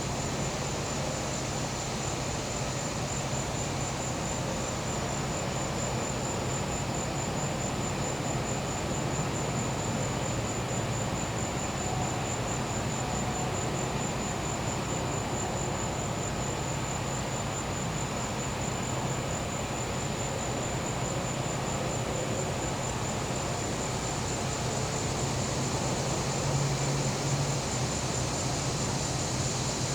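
Steady hum of a gas-powered generator with a continuous high, rapidly pulsing cricket trill over it. The hum grows a little louder near the end.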